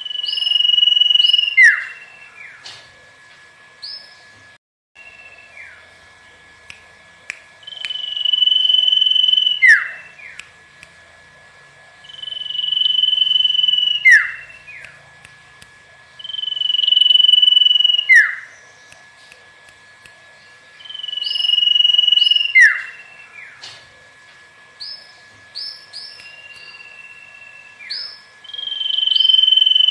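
Common iora (cipoh/sirtu) singing: a long, level whistle about two seconds long that ends in a sharp downward slur, repeated seven times about every four seconds, with short higher notes between the phrases. A faint steady high tone runs underneath.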